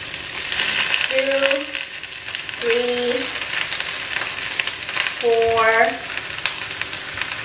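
Squid cooking in a stainless steel pan with a steady frying sizzle. A woman's voice makes three short sounds over it.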